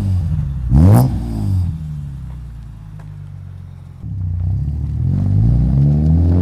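BMW E36 M3's Euro-spec S50B32 straight-six, running through a Supersprint exhaust with no cats. The engine revs sharply about a second in and falls back to idle, then picks up again about four seconds in and holds at raised revs, slowly climbing.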